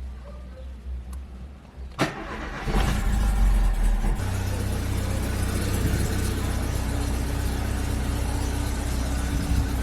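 Opel Corsa engine starting: a click, then a second later the engine catches with a loud low rumble and settles within about a second and a half into a steady idle.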